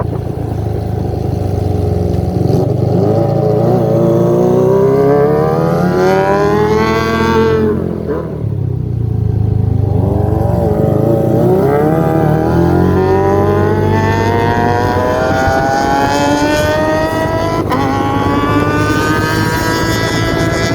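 Kawasaki ZX25R's high-revving inline-four engine through a Yakuza undertail exhaust, accelerating with a rising pitch, backing off briefly about 8 seconds in, then climbing steadily in pitch again through a long pull.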